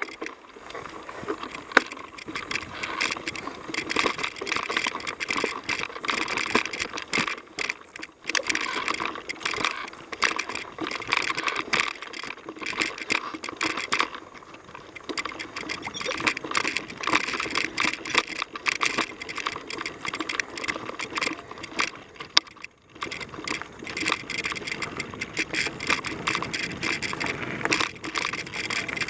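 Mountain bike ridden along a dirt trail, with dense rattling and clicking from the bike's parts and tyre noise over the ground. It keeps up throughout, with a brief lull a little after halfway.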